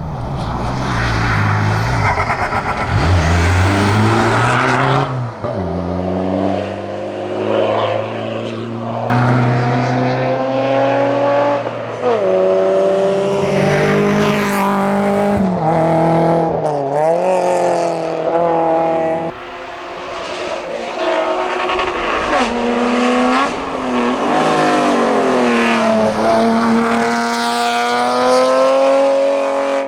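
Racing car engine run hard on a hillclimb: it revs up through the gears, the pitch climbing and then falling away at each gear change or lift. The sound jumps abruptly a few times.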